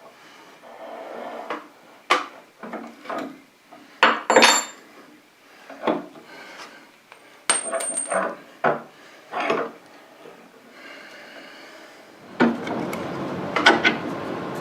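Metal knocks and clinks from hand tools on a stuck machined part, about half a dozen sharp strikes, one with a short high ring, as the stubborn piece is worked loose. Near the end a steadier rough scraping noise takes over.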